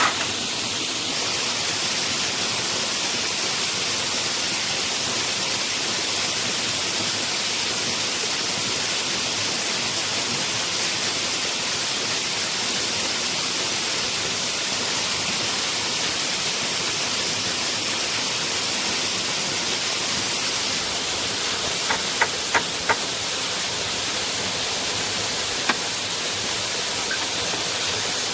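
Steady rush of a waterfall, an even hiss of falling water. Near the end come four sharp knocks in quick succession and a single one a few seconds later.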